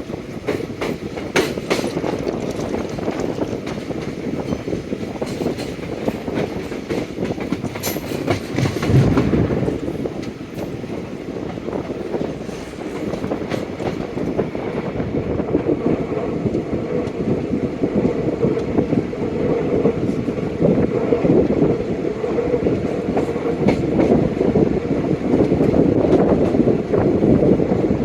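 Indian Railways express passenger train running on the track, heard from on board: a steady rumble with the wheels clacking over rail joints, a few sharper clacks about a second in and again around nine seconds.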